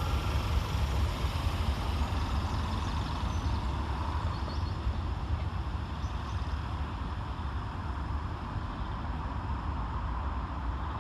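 Scotrail Class 320 electric multiple unit pulling out of the station: a steady rumble of wheels and traction that slowly fades as it draws away.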